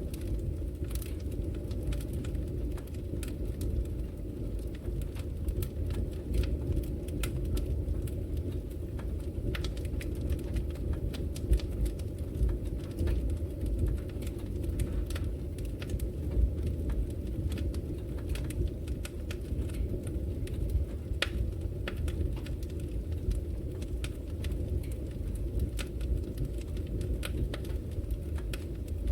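Wood fire burning in a brick fireplace: a steady low rumble of flames with frequent sharp crackles and pops from the burning logs.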